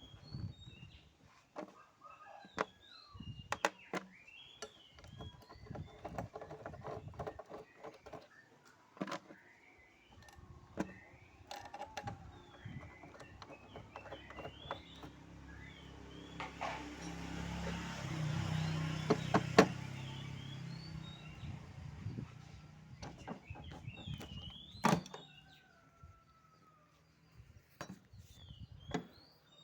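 Scattered metal clicks and knocks of hinge bolts being put back and handled on a refrigerator door, with birds chirping in the background. About halfway through, a louder rumbling noise swells up and fades away over several seconds.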